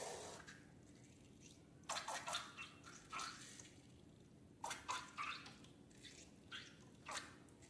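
Slime being mixed, giving short wet squelches and sticky clicks in small clusters with quiet gaps between.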